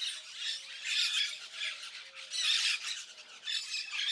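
A flock of white-winged parakeets squawking and chattering in a continuous shrill chorus, swelling about a second in and again about halfway through.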